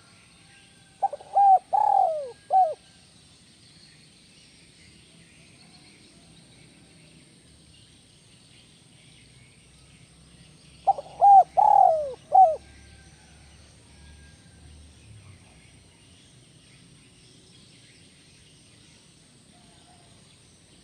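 Spotted dove (tekukur) cooing: two phrases of about four notes each, about a second in and again about eleven seconds in, each note rising then falling, with a longer falling coo in the middle and a short note at the end, the 'kuk 1' song style.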